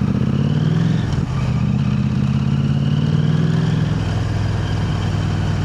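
KTM 890 Adventure R's parallel-twin engine running through an Arrow Race-Tech black aluminium silencer while riding. The revs rise gently, dip briefly about a second in, climb again and ease off near the end.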